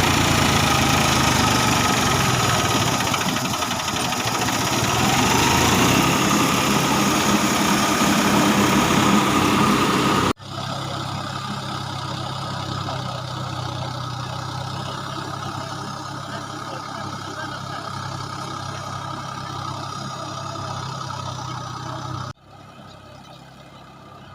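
Farm tractor diesel engine running steadily, heard in three clips joined by abrupt cuts about ten seconds in and near the end, each clip quieter than the one before.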